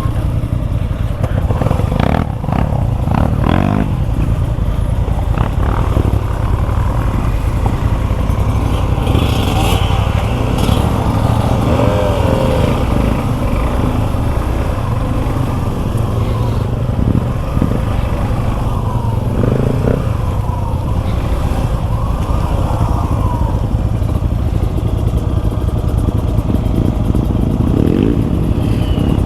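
Suzuki V-Strom 250 SX motorcycle's single-cylinder engine running under way on rough off-road ground, the pitch rising and falling with the throttle. A few knocks about two to four seconds in.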